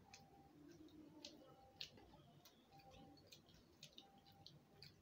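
Faint, scattered clicks and smacks of someone chewing a deep-fried bread pakora with the mouth closed, one slightly sharper click near the middle.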